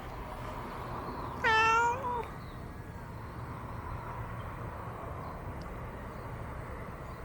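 A cat meowing once, a single pitched call of about half a second about a second and a half in, over a steady low rumble.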